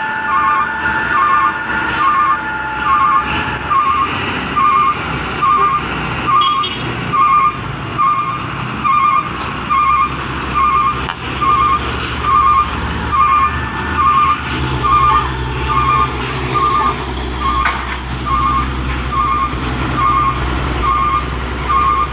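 Truck reversing alarm beeping steadily, short beeps about once a second, over a truck's engine running; the engine grows louder about two-thirds of the way through.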